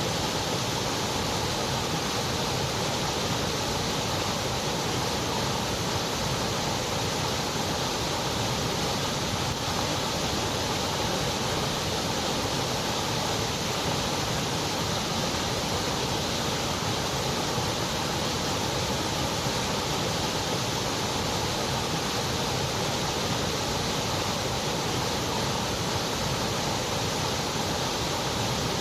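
Continuous white noise: an even, unchanging hiss with no rhythm, tones or separate events.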